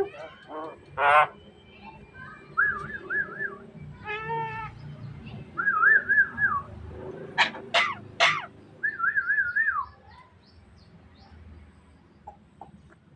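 Javan myna calling in a varied string: warbled whistled phrases repeated three times, a harsher buzzing note, and three sharp rising whistles in quick succession about seven to eight seconds in.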